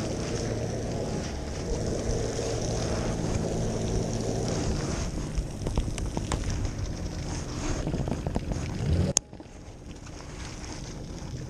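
Jet ski engine running under way, with wind buffeting the microphone; the sound cuts off suddenly about nine seconds in, leaving a quieter rush.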